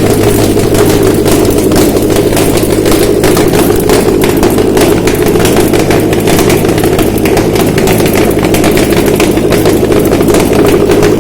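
Subaru EJ253 2.5-litre flat-four engine running steadily on a test stand, with a rapid, even pulsing throughout.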